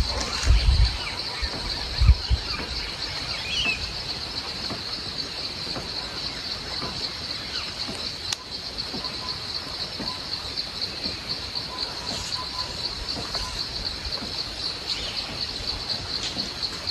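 A steady insect chorus, a high buzz pulsing rapidly, with a few short bird chirps over it. A couple of low thumps come in the first two seconds.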